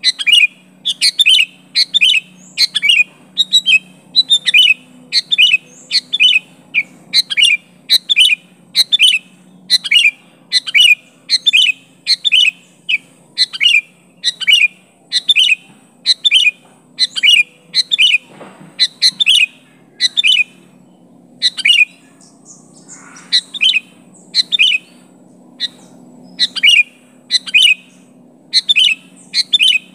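Sooty-headed bulbul giving short, sharp calls over and over, one to two a second, as challenge calls to a rival, with a short break about two-thirds of the way through.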